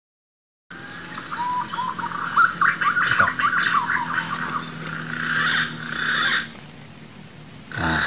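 Birds calling in the trees: a busy chatter of many short whistles and chirps that starts abruptly just under a second in, thins out after about six seconds and picks up again briefly near the end.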